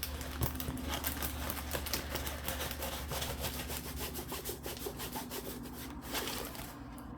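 A rolled diamond painting canvas with a slick coated surface being handled and rolled back the other way, its surface rubbing and crackling continuously.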